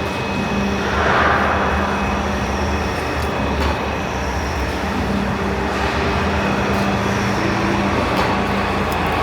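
Radial drilling machine running steadily with a constant low hum, with a brief louder hiss about a second in.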